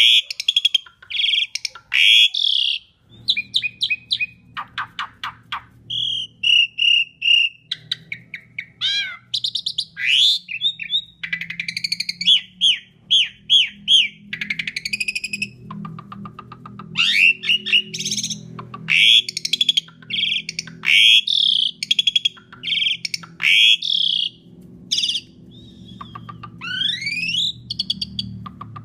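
Asian pied starling (jalak suren) singing a long, varied song of loud whistles, quick chattering trills and rising and falling notes. A low steady hum sits underneath from about three seconds in.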